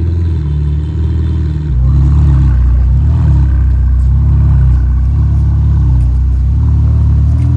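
Sports car engine running loudly near idle, its pitch lifting and dropping in several small humps as the revs rise and fall a little.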